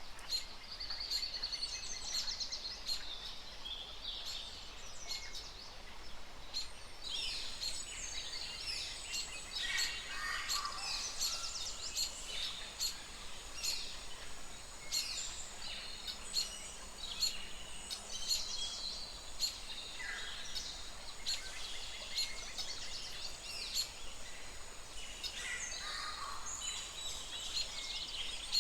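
Several birds chirping and calling at once: a busy chorus of quick, high chirps and trills over a steady background hiss, growing denser about a quarter of the way through.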